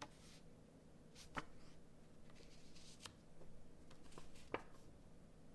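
Faint handling of tarot cards: soft rustling with a few light clicks and taps as cards are moved and laid down, about four of them spread across the few seconds.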